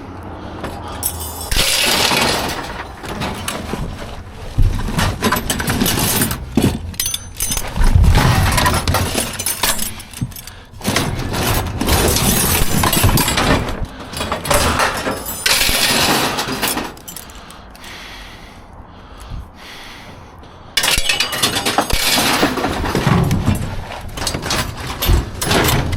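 Scrap metal and junk clattering and crashing as a dumpster is rummaged through and pieces are thrown aside: repeated bangs, clanks and scraping, with a quieter spell a little past the middle.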